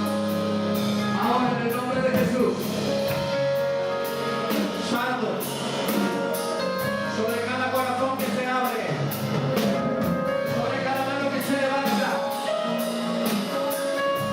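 Church worship music with a steady drum beat under sustained chords.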